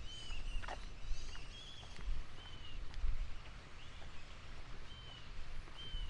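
Birds calling: a short slurred whistle repeated about once a second, with higher twittering in the first second or so, over a steady low rumble.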